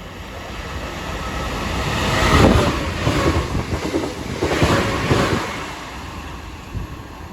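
Class 465 Networker electric multiple unit running through the station. Its rumble builds to a peak about two and a half seconds in and surges again around five seconds, with wheels clattering over rail joints, then fades.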